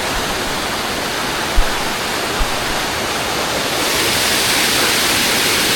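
Monsoon-season waterfall rushing, a steady noise of falling water that grows a little louder and brighter near the end. A brief low bump about one and a half seconds in.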